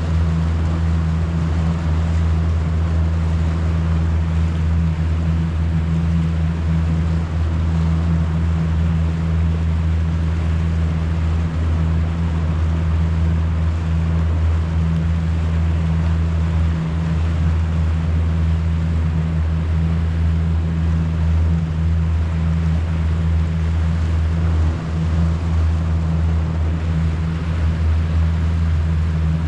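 Steady low drone of a boat motor running at constant speed under way, with the hiss of water and wind over it.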